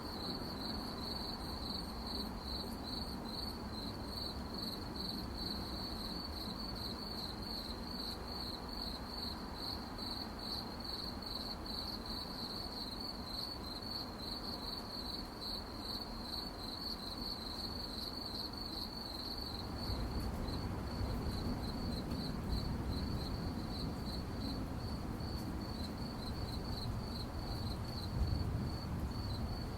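Crickets chirping at night in a fast, even, high-pitched pulsing trill. A low background rumble grows louder about two-thirds of the way through.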